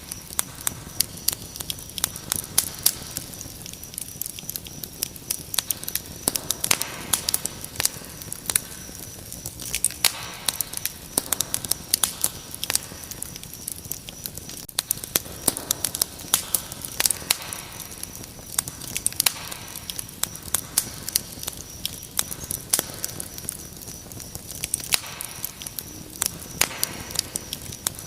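Wood fire crackling with frequent, irregular sharp pops, over a steady high cricket chirring.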